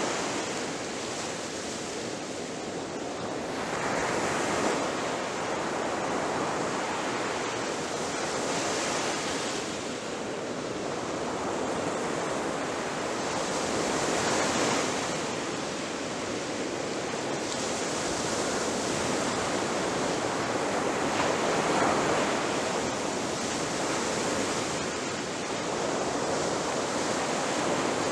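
Ocean surf: waves breaking and washing on the shore in a continuous rush that swells and eases every few seconds.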